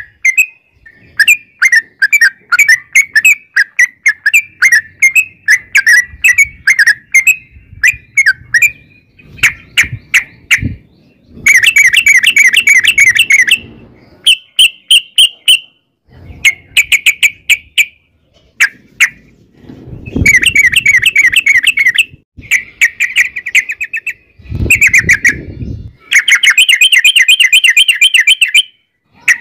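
Yellow-vented bulbul (trucukan) singing loudly: long runs of rapid, bubbly chattering notes in phrases of one to three seconds with short pauses. A low rumble sits under the song twice, around the middle and two-thirds of the way through.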